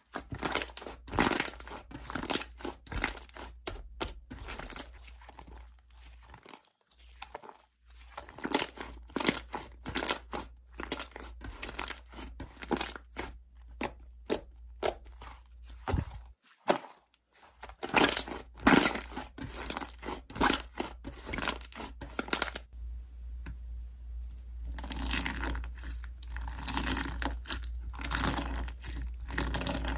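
Slime being squished and stretched by hand, making irregular crackling, popping and crinkling sounds, with a couple of short pauses. A steady low hum runs underneath.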